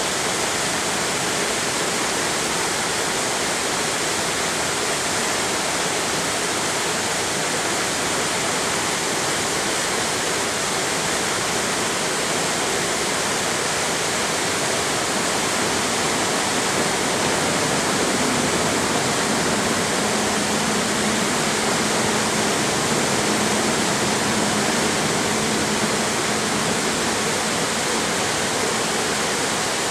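Mountain stream and waterfall water rushing steadily over rocks, a dense unbroken rush. A faint low hum joins about two-thirds of the way in.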